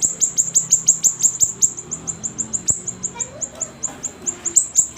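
Siri-siri songbird in full song: a fast run of high, downward-sweeping chirps, about five or six a second, kept up without a break.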